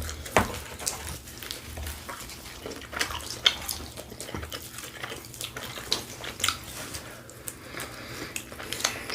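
Close-miked chewing and mouth sounds of someone eating pizza: a scatter of short wet clicks and smacks.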